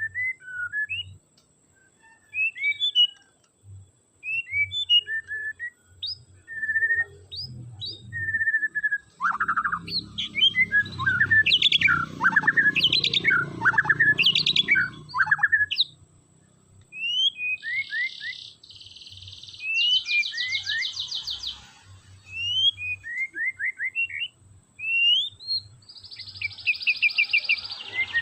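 White-rumped shama (murai batu) singing a varied song of short whistled notes, slurred glides and chirps, with a dense, loud run of phrases about a third of the way in and fast buzzy rattles later on and near the end.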